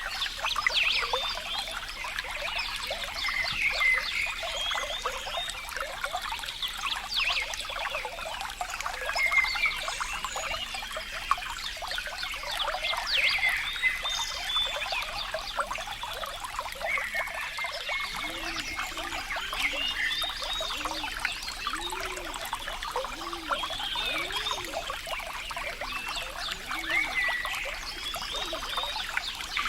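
Water trickling and splashing in a steady patter. A little past halfway, a run of short low notes repeats about once a second under the trickle.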